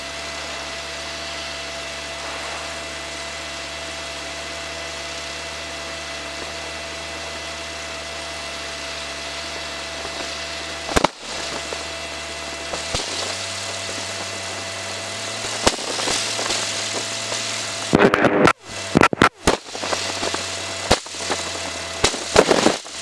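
Light aircraft's propeller engine running at taxi power, heard from inside the cockpit as a steady hum with held tones. Its note shifts about halfway through. Near the end comes a rapid run of sharp clicks and crackles.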